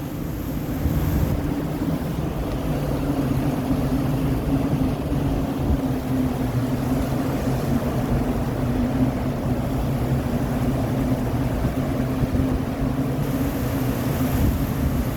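Typhoon wind blowing hard and steadily, buffeting the microphone with a deep, unbroken rumble.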